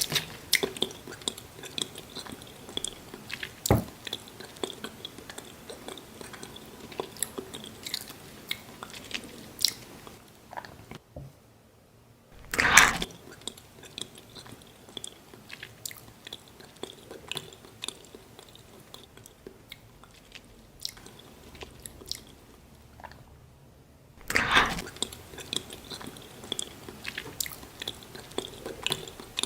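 Close-miked ASMR eating: a mouth chewing and crunching on a slice of pizza, with small wet clicks throughout. Three louder crunching bites come at the start, about halfway through and near the end.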